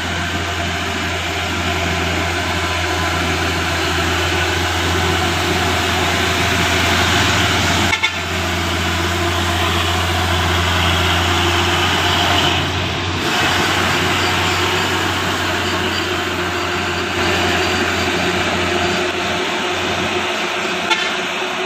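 Diesel truck engine running steadily with a strong low drone and heavy mechanical and road noise.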